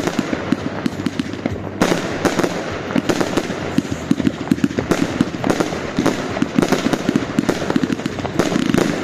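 Albert Feuerwerk 'King of Bling' firework battery firing: a dense, continuous run of bangs and crackling pops.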